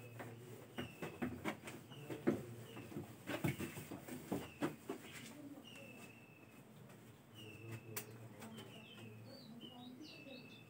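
A bird chirping over and over, a short, slightly falling note about once a second, with a quick flurry of higher squeaky notes near the end. In the first half, a cloth wipes a whiteboard in a few rubbing strokes.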